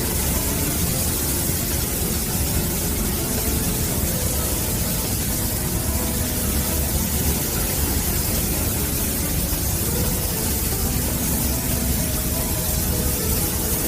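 Steady hissing noise with a low rumble underneath, unchanging throughout.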